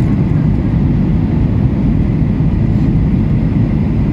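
Airliner cabin noise: the steady low rumble of the engines and rushing air, heard from inside the passenger cabin around landing.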